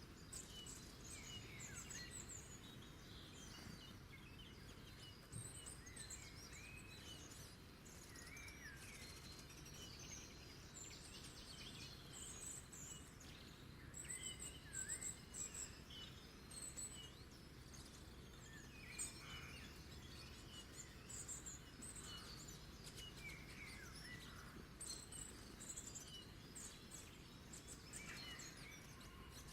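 Several small birds chirping and singing faintly: quick high chirps and short swooping whistles, many overlapping, over a steady low background hiss.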